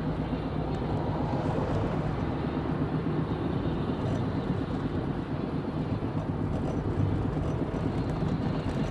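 Steady low rumble of vehicle and road noise, with no sharp scrapes or knocks standing out.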